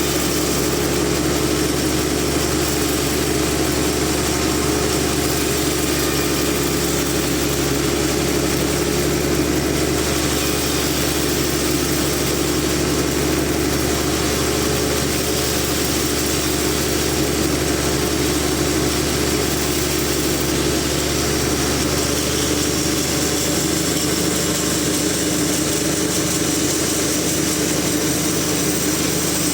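Sawmill machinery running with a steady, unchanging mechanical drone and hum.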